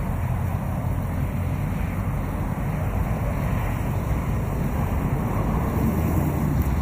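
A vehicle engine running with a steady low rumble, growing a little louder near the end.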